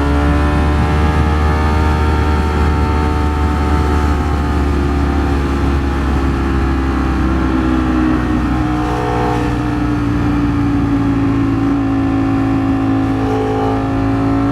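Ducati Streetfighter V4 S's V4 engine running at steady road speed, its note sagging slightly in pitch through the middle and rising again near the end, over a steady low wind rumble.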